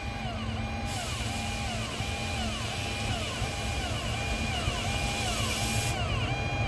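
Train rumbling along the track with a loud steady hiss from about a second in until near the end. Over it a repeating electronic tone figure, each note rising, holding and falling, about every 0.7 s.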